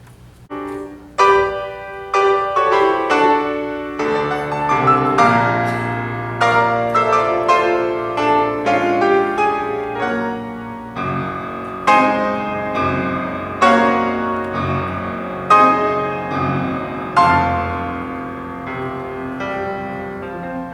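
Piano begins playing about half a second in: a slow piece of struck chords and bass notes, each left to ring on into the next.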